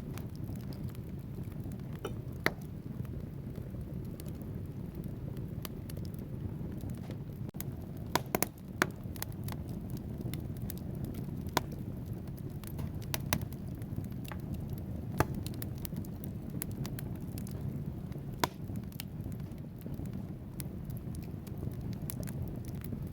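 Wood fire burning in a fireplace: a steady low rumble of flames with scattered sharp crackles and pops from the burning logs, and a quick run of pops about eight seconds in.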